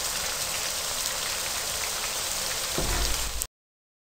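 Chicken frying in hot oil in an aluminium wok on high heat, a steady sizzle. A low thud comes about three seconds in, and then the sound cuts off abruptly.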